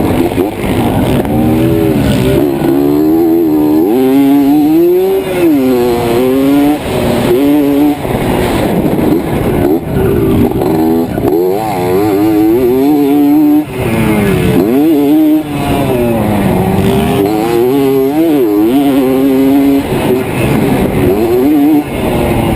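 Two-stroke dirt bike engine being ridden hard, its pitch repeatedly climbing and dropping as the throttle is opened and closed and gears change.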